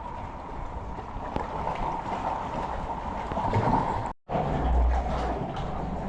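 Wind and sea-water noise around a kayak on the open ocean, with a short gap about four seconds in where the sound cuts out.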